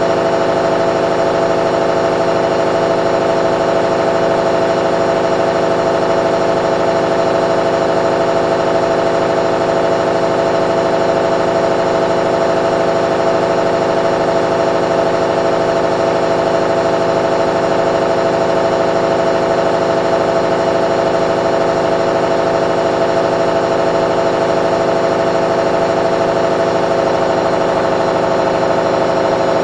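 Candy washing machine running with a loud, steady motor hum of several fixed tones that does not change.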